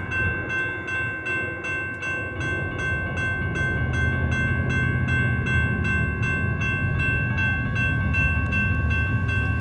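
Grade-crossing warning bell dinging at a steady, even pace as the crossing activates, with the low rumble of an approaching Union Pacific diesel freight train building from about three seconds in.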